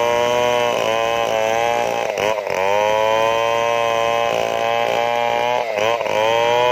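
Stihl chainsaw running at high revs, its pitch sagging briefly and recovering twice, about two seconds in and near the end.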